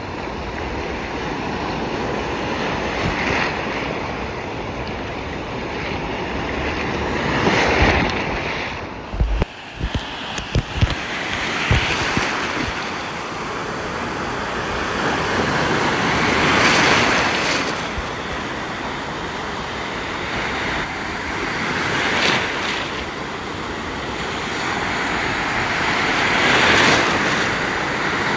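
Storm surf on the sea: heavy waves breaking in a continuous wash, a big one crashing about every five seconds. A few short low thumps of wind on the microphone about ten seconds in.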